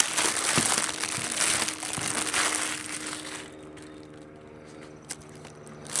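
Plastic packaging crinkling and rustling as items are unwrapped and handled, dying away about three and a half seconds in; a single click near the end.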